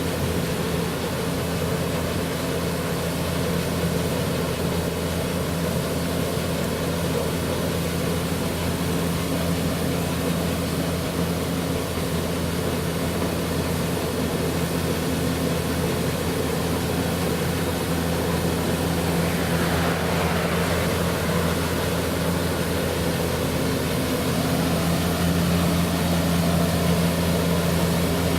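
Heavy farm machine's engine running at a steady, unchanging note, with a brief swell of hiss about twenty seconds in.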